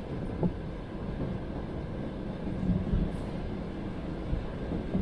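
Passenger train running along the track, heard from inside the carriage: a steady rumble of wheels on rails with a few wheel knocks over rail joints.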